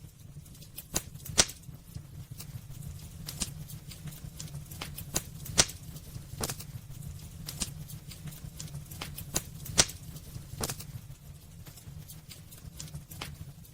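Wood burning in a fireplace: irregular sharp crackles and pops, a few louder snaps among them, over a low steady rumble of the flames.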